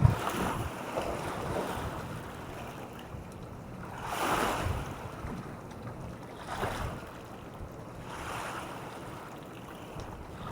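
Small waves washing in on the shore, several surges a couple of seconds apart, with wind rumbling on the microphone. A brief low thump at the very start is the loudest moment.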